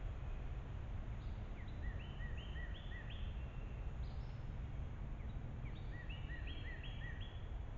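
A songbird singing two runs of quick repeated two-part notes, a few seconds apart, over a steady low background rumble.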